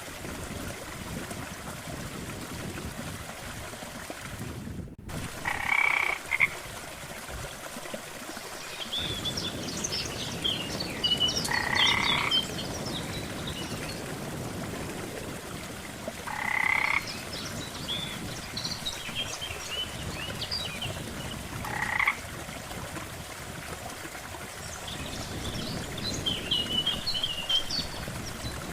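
Frogs croaking: one loud croak about every five seconds, with clusters of higher chirps between them over a steady background hiss. There is a very brief drop-out about five seconds in.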